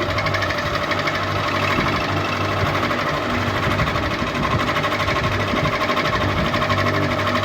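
Ceiling fan running steadily: a constant motor hum with a fast, even pulsing rattle.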